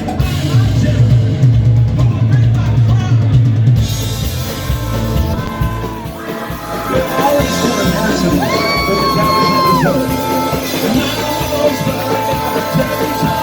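A live rock band playing: drum kit and bass, with a long held note about two thirds of the way through.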